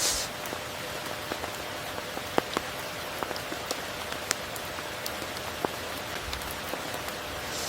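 Steady tropical rain falling, with many individual drops tapping distinctly here and there over the hiss, and a brief swell of hiss right at the start.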